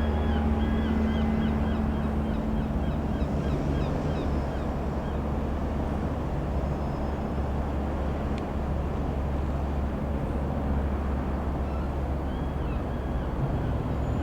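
Single piston engine of a Robin R3000/140 light aircraft, droning steadily as it flies over; it eases off in the middle and grows again near the end. Small birds chirp in short repeated calls during the first few seconds.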